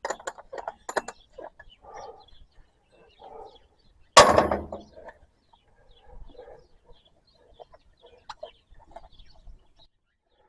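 Light metallic clicks and clinks of hand work on a tractor's fuel filter, with one loud sharp clank about four seconds in, and scattered soft chicken clucks.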